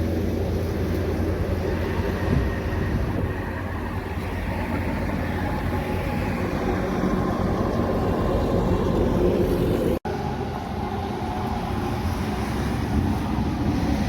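Passing heavy-truck traffic: engine and tyre noise running steadily, with a sudden momentary break about ten seconds in.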